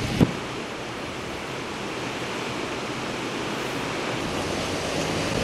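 Storm waves breaking on the shore in cyclone winds, with wind buffeting the microphone: a steady rushing noise that slowly swells. There is a single sharp thump about a quarter of a second in.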